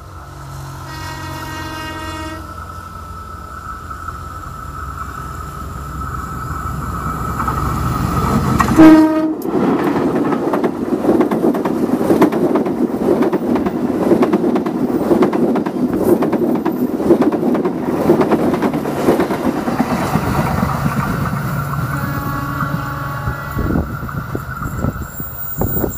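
A passing train. The locomotive's horn sounds a chord about a second in. A second short blast near nine seconds drops in pitch as the locomotive goes by. Then the coaches' wheels rumble and clatter over the rail joints for about twelve seconds before fading.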